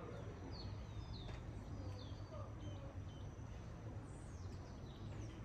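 Small birds chirping in a tropical garden, a string of short gliding calls in the first half and more near the end. Under them runs a steady hiss of rain with a low hum.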